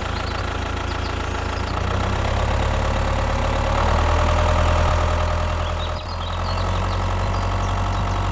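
An engine idling steadily, growing a little louder in the middle with a brief dip near the end.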